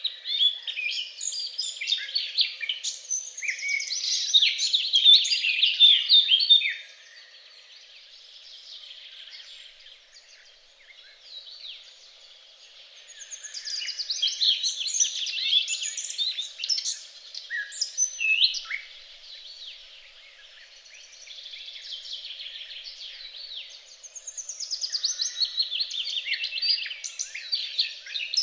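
Wild songbirds singing: fast, high twittering and warbling phrases that come in three loud outbursts, with softer chirps in between.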